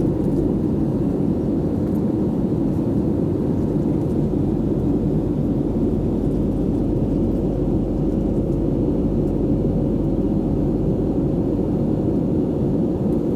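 Steady engine and airflow noise inside the cabin of an Airbus A320 airliner in flight, with a faint steady hum over the low noise.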